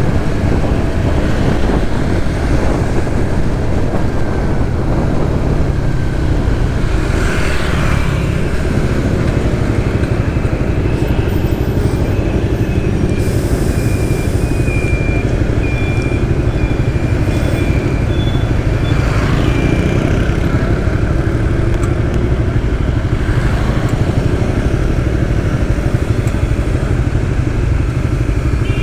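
A Suzuki GSX-S150's single-cylinder engine running steadily under way, with wind rush and traffic noise. Midway there is a string of short high beeps about once a second.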